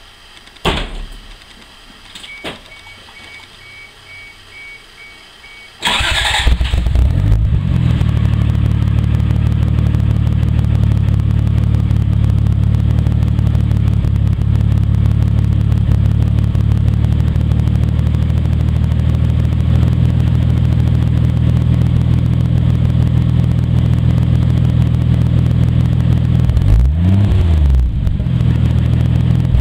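Toyota Supra's turbocharged 7M-GTE straight-six with a 3-inch Raptor Racing turbo-back exhaust starting about six seconds in, after a couple of clicks and a faint steady beep, then idling steadily. Near the end it is revved twice briefly.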